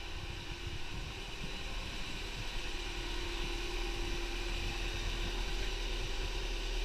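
2000 Honda Prelude's four-cylinder engine idling steadily as it warms up after a cold start, under a steady hiss. A steady hum joins about two and a half seconds in.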